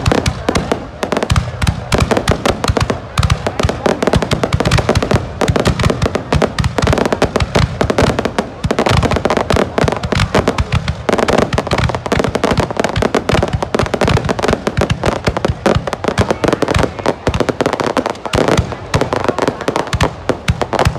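Aerial fireworks display: a dense, unbroken barrage of shell bursts and crackles, many per second.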